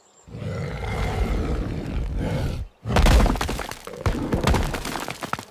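Cartoon crashing and breaking sound effects for a beehive being smashed, in two long noisy runs full of cracks and thuds, split by a short break just before the middle.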